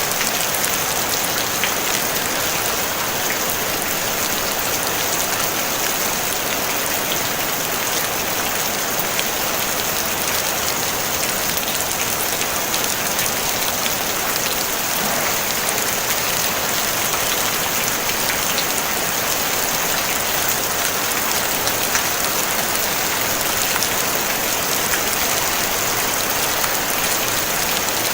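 Steady gentle rain falling on a tin roof: an even, dense hiss full of small drop ticks, with no thunder.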